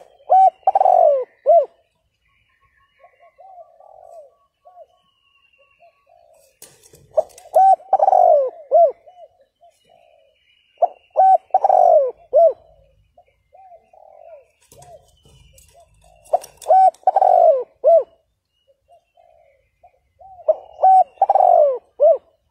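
Spotted dove cooing: five phrases of several low coos each, coming about every four to five seconds, with fainter single coos between them.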